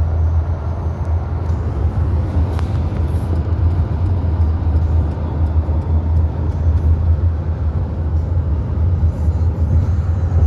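A car driving along a road: steady low rumble of road and engine noise.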